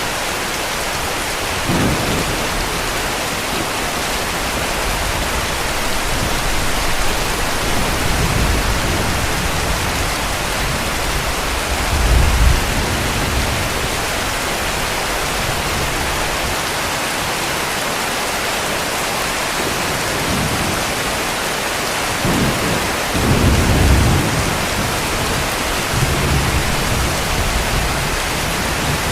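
Steady heavy rain with repeated low rumbles of distant thunder, the strongest about twelve seconds in and again near the end.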